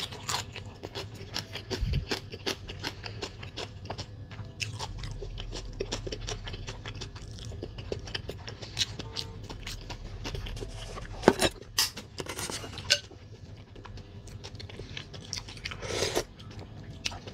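Close-miked chewing of a mouthful of food: wet mouth clicks and smacks, with a few louder crunches partway through. Near the end, a short slurp as a spoonful of soup is taken.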